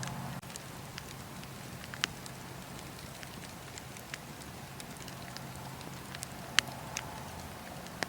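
Wood fire crackling in a fireplace: a steady low background of burning with scattered sharp pops and snaps, the loudest about two seconds in and again around six and a half seconds in.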